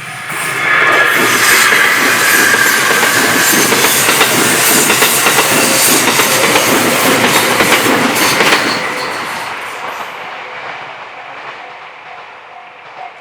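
A train passing over a railway level crossing, its wheels clacking over the rail joints for about eight seconds before the sound fades away. The crossing's alarm bell rings again faintly in a steady repeating beat near the end.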